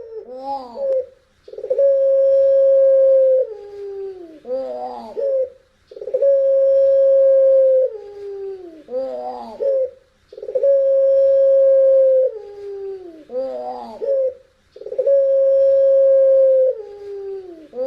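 Puter pelung dove cooing the same long phrase four times: a drawn-out steady note that slides down in pitch and breaks into a wavering warble, repeated about every four seconds, with a howl-like quality.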